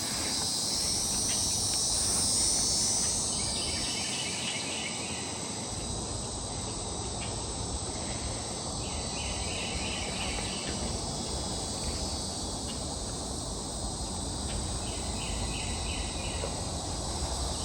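Steady high-pitched drone of an insect chorus, loudest in the first few seconds. Short runs of rapid pulsing calls come in about every five to six seconds.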